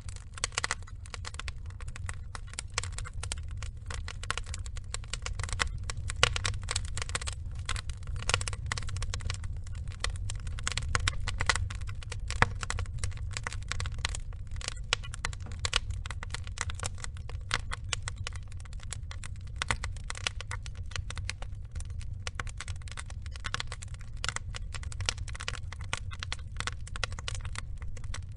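Wood fire burning logs: a steady low rumble of flame with dense, irregular crackling and a few sharper pops.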